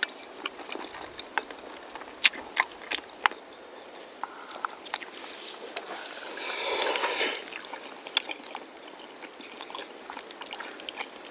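Eating jjajang noodles: scattered sharp clicks of utensils, and one louder slurp of noodles lasting about a second, around the middle.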